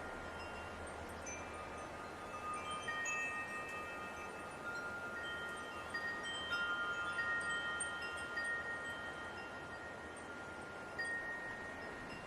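Wind chimes ringing: several overlapping notes struck at irregular intervals, each held for a second or more, over a soft hiss of light wind.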